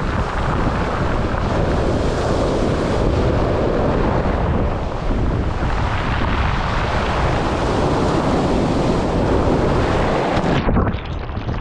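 Black Sea surf washing on the shore, mixed with wind rumbling on the microphone. About a second before the end the sound briefly turns dull, losing its higher hiss.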